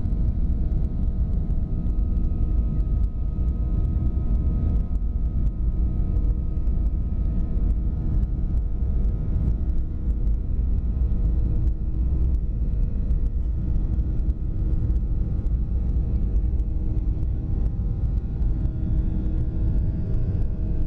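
Jet airliner engines running at steady power during takeoff, heard from inside the cabin: a loud low rumble with several steady engine tones.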